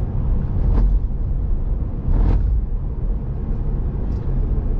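Steady low road and engine rumble inside a moving vehicle's cabin, with a brief louder rush of noise about two seconds in.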